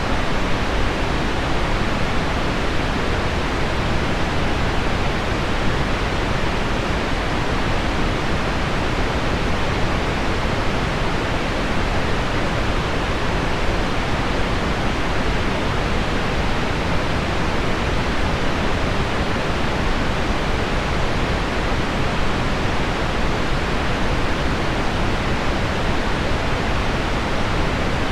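Steady, unbroken pink noise with the hiss of heavy rain on window glass blended in, weighted toward the low end and with no separate drops or events standing out.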